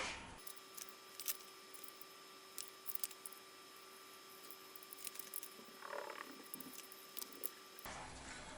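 Faint, scattered small clicks and light handling noises over a steady faint high-pitched hum, with a slightly louder rustle about six seconds in.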